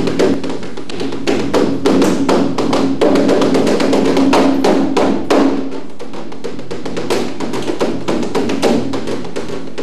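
Live improvised percussion music: fast, irregular strikes on drums and wooden percussion, some crisp taps and some heavier hits, over a steady sustained low tone.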